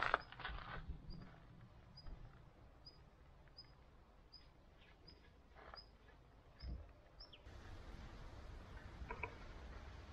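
A small bird repeating a short, high chirp about once every three-quarters of a second, faint against the outdoor background; the chirping stops about seven seconds in.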